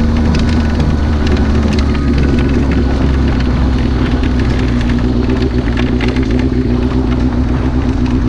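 Motorcycle engine running at a steady speed, with many short clicks and knocks scattered through it.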